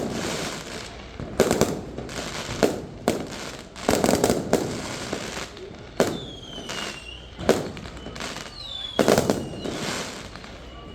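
Aerial fireworks bursting: about a dozen sharp booms at irregular intervals with crackling between them, and a few falling whistles in the second half.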